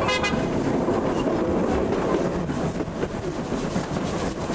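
Steam-hauled passenger train rolling along the track, heard from a coach: a steady rumble with wheels clattering over the rails.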